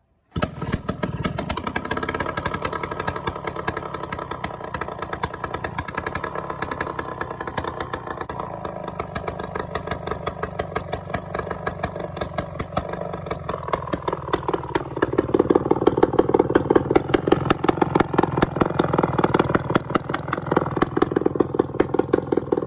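Dirt bike engine running with a fast, even exhaust beat, growing louder and higher about two-thirds of the way through.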